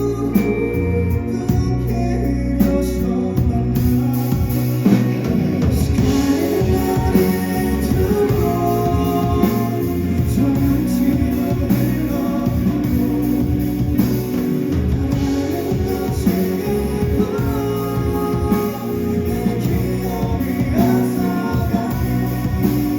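Live band playing a ballad, a lead vocalist singing over guitar and band accompaniment.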